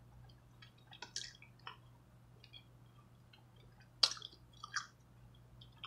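Close-miked chewing with soft mouth clicks and smacks, a sharper click about four seconds in and another near five seconds.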